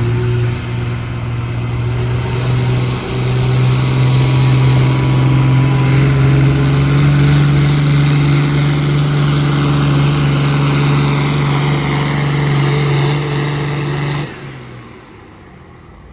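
Pulling vehicle's engine running hard under load during a pull, its pitch creeping slowly upward. It cuts off abruptly about fourteen seconds in, leaving a much quieter background.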